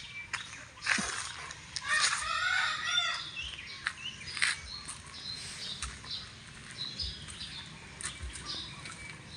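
Birds calling, with one longer warbling call of about a second and a half starting about two seconds in, and short chirps after it, over scattered clicks and taps.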